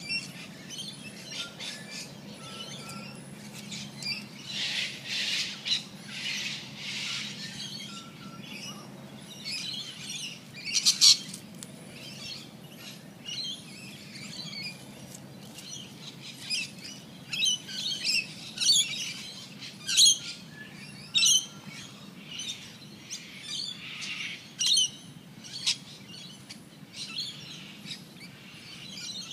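Birdsong: many short, high chirps and calls scattered throughout, the loudest cluster about eleven seconds in, over a steady low hum.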